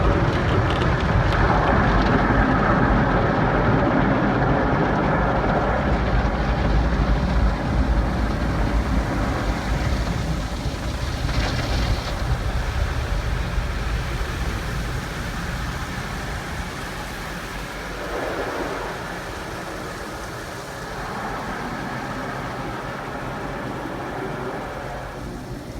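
Automatic car wash equipment running: a steady rushing noise over a low rumble that gradually grows quieter.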